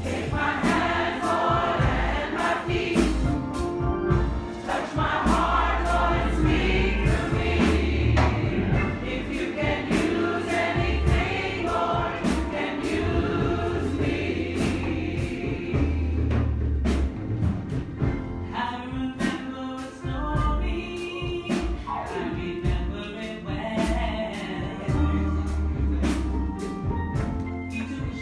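A church congregation singing a gospel song together, accompanied by a drum kit keeping a steady beat and low bass notes.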